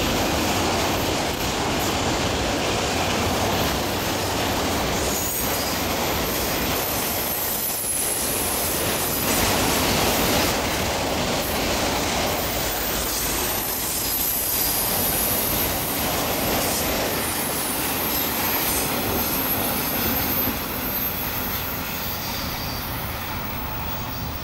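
Freight train rolling past close by: a steady rumble of wheels on rail with a high-pitched wheel squeal over it. It fades in the last few seconds as the end of the train goes by.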